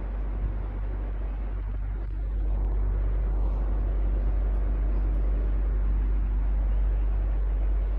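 Electric fan running steadily: an even whooshing noise over a low hum. It grows slightly louder about two and a half seconds in.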